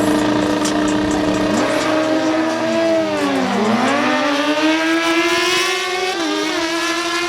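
Suzuki GSX-R1000 sport bikes' inline-four engines running hard in a quarter-mile drag race. The engine note dips sharply about three and a half seconds in, climbs again, and drops a little near the end as the bikes shift up.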